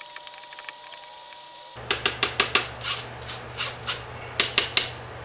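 Damp firework composition being worked through a mesh screen by hand. After a quiet start, a run of sharp, irregular taps and scrapes begins about two seconds in, a few per second, over a low hum.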